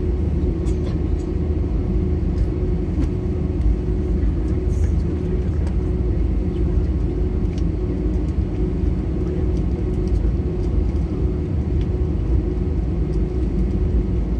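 Steady low rumble of jet engines and airflow, heard inside an Airbus A320 cabin, with a steady hum over it.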